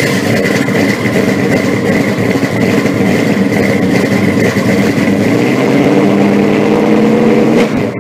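Car engine running loudly and steadily, with a steady high whine over it. It drops away near the end.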